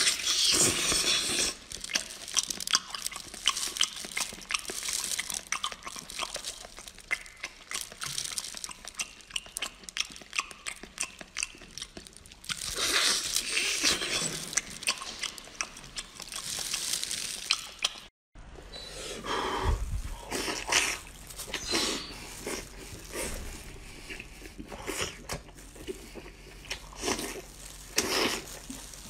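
A person eating braised octopus close to the microphone: wet chewing and biting with many small smacks and clicks, and sucking at the tentacles. A brief silence about two-thirds through.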